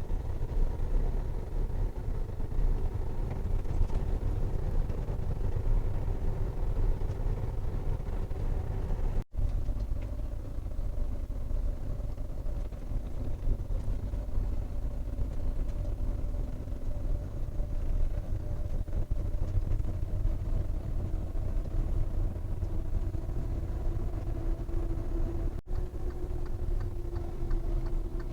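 Semi truck driving on the road, heard from inside the cab: a steady low engine and road rumble with faint engine tones that drift slowly in pitch. The sound drops out for an instant twice, about nine seconds in and near the end.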